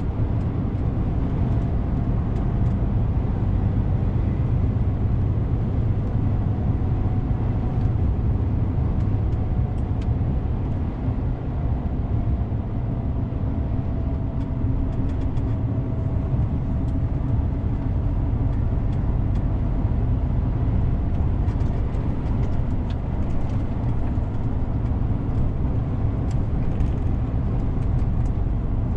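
DAF CF 450 truck on the move: a steady low engine and road drone with a faint wavering whine above it.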